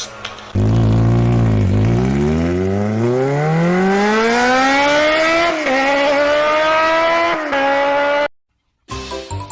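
Car engine revving up: its pitch dips briefly, then climbs steadily for several seconds with a couple of small steps, and cuts off suddenly near the end.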